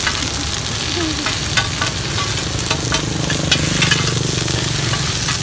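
Bột chiên (rice-flour cake) frying in oil in a tilted pan: a steady sizzle with frequent short clinks and scrapes of a metal spatula against the pan.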